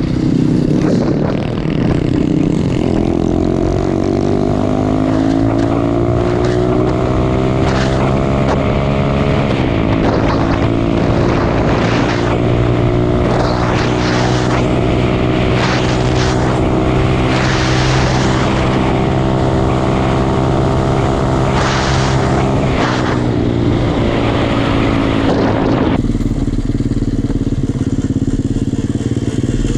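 A 125cc pit bike's single-cylinder four-stroke engine running under way. The revs climb over the first several seconds, drop once at a gear change, hold steady while cruising, then fall near the end, with repeated gusts of rushing wind on the microphone.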